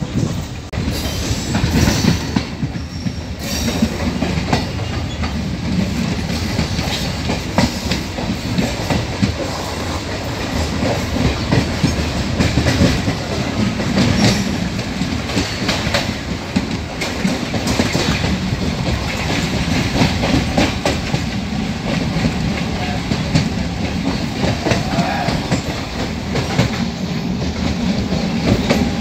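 MEMU electric multiple-unit train running along the track, heard from an open coach doorway, its wheels clattering steadily over the rail joints.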